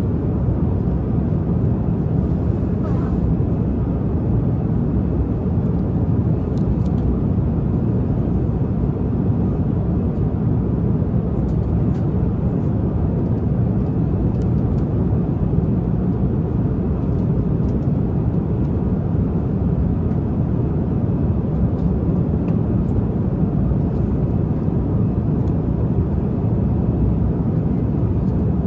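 Airliner cabin noise in flight: a steady, low, even roar of engines and airflow, with a few faint ticks.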